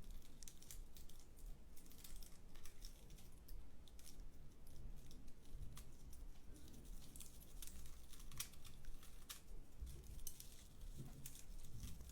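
Dried plant material, such as dried flowers or pine cones, rubbed and handled close to the microphone, giving soft, dry crinkling and scratching made of many small, irregular clicks.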